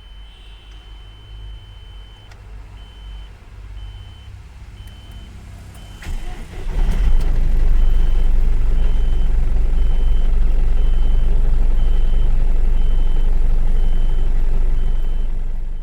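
A truck's dashboard warning tone sounds, then beeps about twice a second. About six to seven seconds in, the Eicher BS6 truck's diesel engine cranks, catches and runs loudly.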